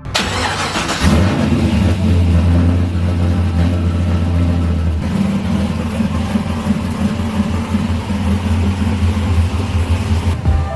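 A car engine starts with a sudden burst, then runs steadily with a deep, even note that shifts slightly about halfway through.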